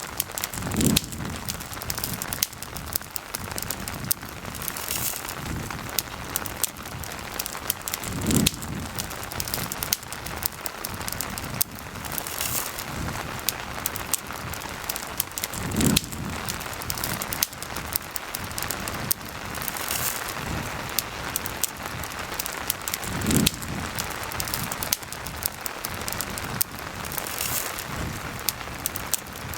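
Steady rain with a campfire crackling and popping throughout, and a low muffled thump about every seven and a half seconds.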